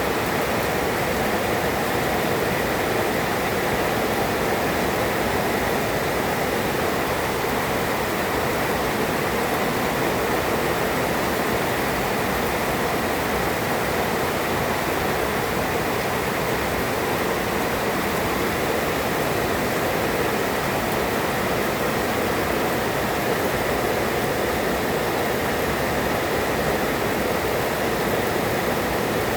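Heavy rain falling steadily in a downpour, a dense even hiss that does not change.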